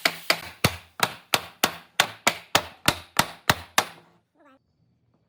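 Steady hammering on wood, about three even blows a second, which stops just before four seconds in.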